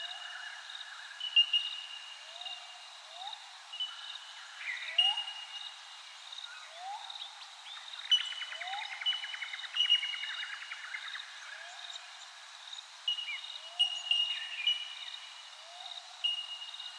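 Several birds calling over one another: a low upward-sweeping call repeating every second or two, thin high whistled notes held briefly, and a fast rattling chatter a little past the middle.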